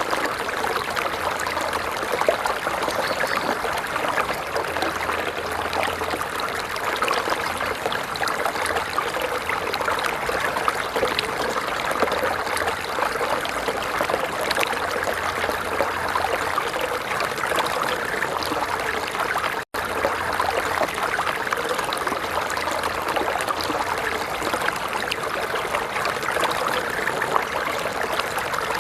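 Water of a stream running and trickling steadily, a continuous babbling splash. It cuts out for an instant about two-thirds of the way through.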